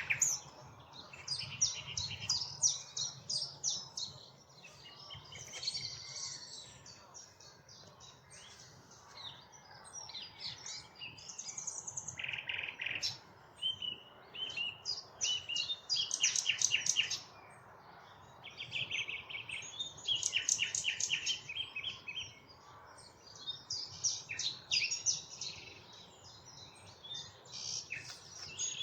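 Common nightingale singing: varied phrases of rapid repeated notes and trills, each a second or two long, separated by short pauses.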